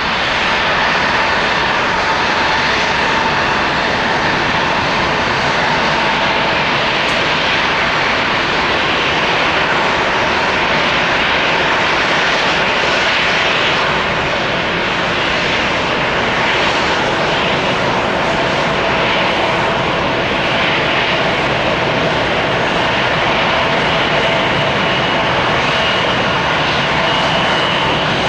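Jet engines of a departing Boeing 787-9 airliner at takeoff power: a steady loud rush of jet noise with faint whining tones through it.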